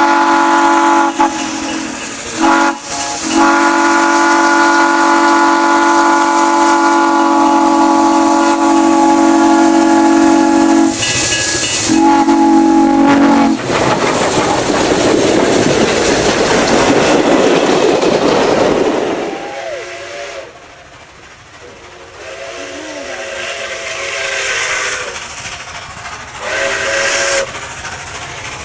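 Steam locomotive whistle blown in a long blast, cut briefly twice near the start, followed by several seconds of loud rushing noise as the train goes by, then several shorter, quieter whistle blasts.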